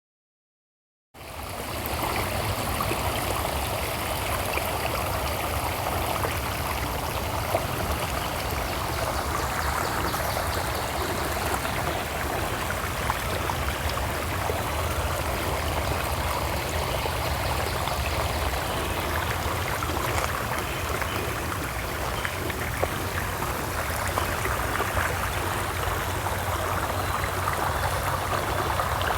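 Steady rush of flowing water, like a stream running, cutting in abruptly about a second in after silence.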